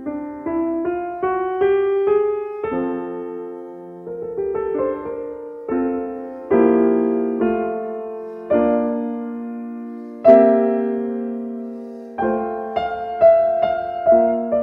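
Gentle piano music: a rising run of single notes near the start, then slow chords struck one after another, each ringing out and fading.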